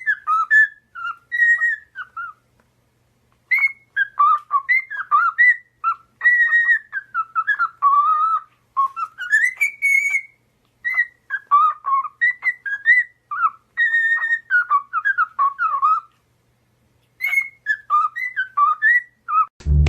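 A pet parrot whistling: a quick run of short whistled notes sliding up and down, broken by two brief pauses.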